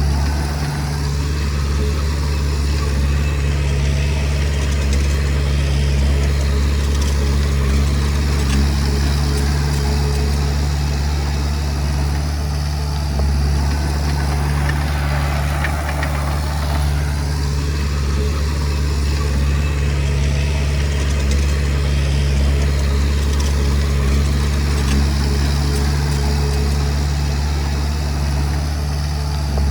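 Diesel engine of a Komatsu D20P bulldozer running steadily, a deep, even drone with no big changes in speed.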